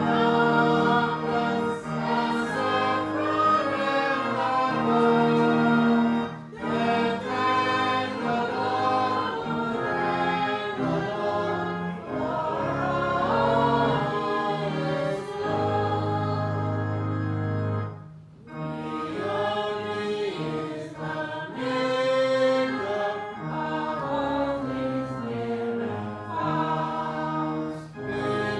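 A church congregation singing a hymn together over a held instrumental accompaniment, with two short breaks between lines.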